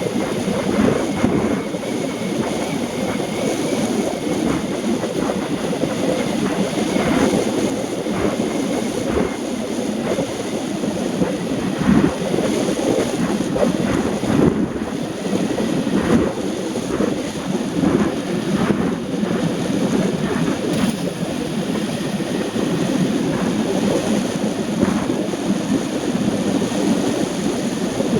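Steady rushing noise of a vehicle travelling on a rain-soaked road, with scattered short knocks and ticks throughout.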